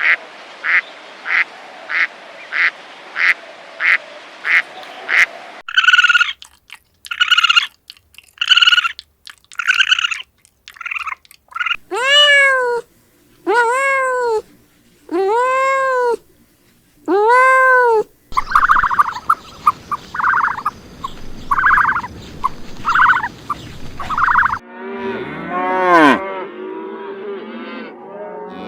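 A run of different farm animal calls, one kind after another. It opens with ducks quacking about twice a second, followed by a mix of shorter calls and several long calls that rise and fall in pitch. Near the end a cow moos.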